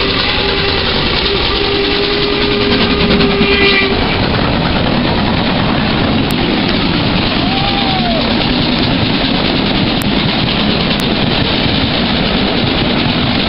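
Steam train passing through a station: a loud, steady rush of running noise from the train, with a held tone that stops about four seconds in.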